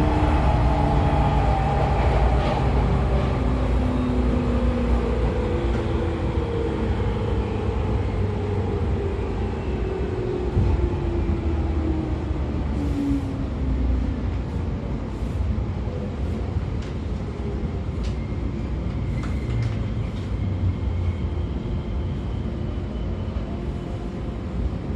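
Running noise inside a JR 113 series electric train's motor car: MT54 DC traction motors and gears whining over the steady rumble of the DT21B bogies on the rails. The whine falls in pitch over the first half as the train loses speed, and a few faint ticks come later.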